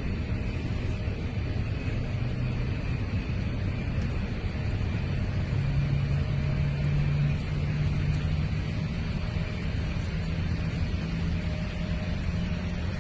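Steady jet airliner noise: a continuous rushing rumble with a low hum that swells slightly about six seconds in, and a faint high whine.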